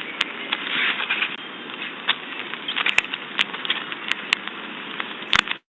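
Outdoor ambience picked up by a Ring security camera's microphone: a steady hiss with scattered sharp clicks and crackles, cutting off suddenly about five and a half seconds in.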